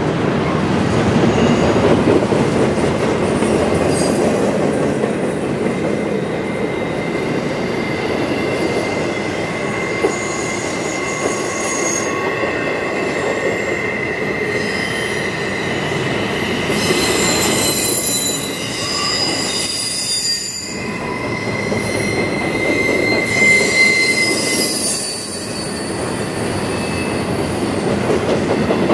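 Double-stack container well cars of a freight train rolling past, a steady clatter and rumble of steel wheels on rail. High-pitched wheel squeals come and go over it, strongest in the second half.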